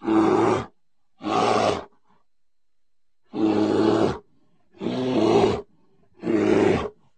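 A bear roaring five times, each roar under a second long, with short silent gaps between them.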